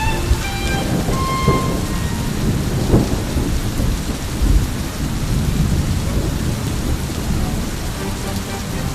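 Steady heavy rain with continuous low thunder rumbling, a couple of sharper cracks about three and four and a half seconds in. A few held string notes fade out in the first second or so.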